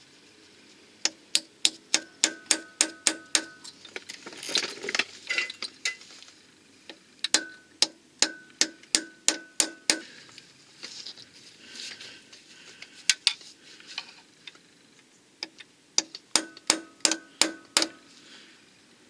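Hammer striking steel in three runs of quick, regular blows, about four a second, each blow ringing like struck metal, with softer scraping of tools between the runs.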